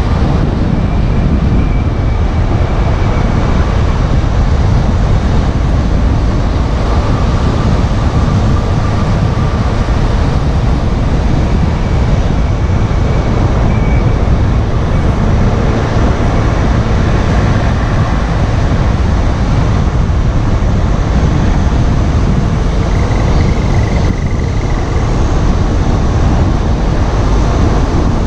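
2014 Volkswagen Golf GTI Mk7 being driven: a steady heavy rumble of road noise with faint thin tones coming and going on top. The recording is meant to capture a wheel noise that appears only on left turns and is unexplained: not the brakes, and the wheel bearing has already been replaced.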